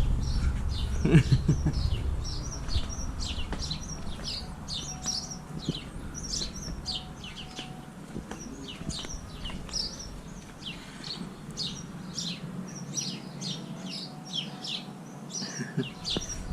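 Small birds chirping: a steady run of short, high chirps, two or three a second.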